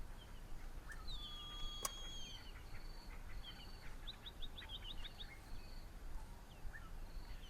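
Wild birds calling and singing: varied whistles, a falling whistled note and a quick run of chirps, over a high note repeated steadily about two to three times a second.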